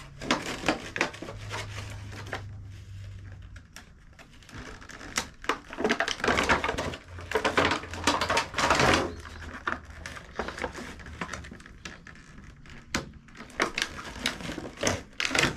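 Small plastic toy parts and packaging being handled: irregular clicks and taps, with bursts of rustling and crinkling about halfway through and again near the end.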